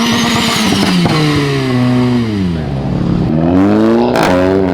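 Car engine revving hard: its pitch climbs, eases down, then climbs again near the end, as it accelerates.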